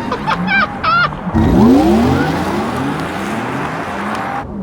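Porsche Taycan GTS driven hard: a brief wavering tire squeal, then a loud rushing sweep with rising pitch as the car accelerates.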